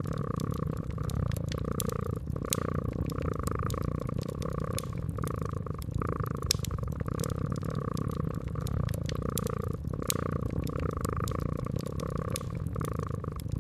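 Domestic cat purring, a steady low rumble that swells and fades in a quick pulsing rhythm, with scattered sharp crackles of a wood fire.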